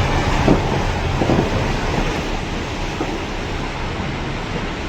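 Steady, loud rush of water from a burst water main.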